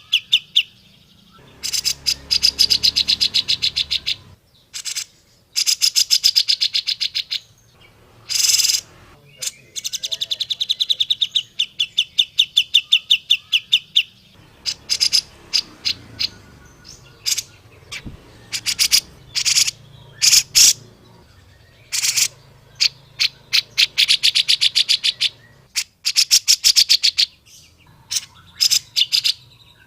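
Grey-cheeked bulbul (cucak jenggot) calling: repeated fast chattering trills of sharp notes, each run lasting one to three seconds, with short pauses and a few single loud notes between.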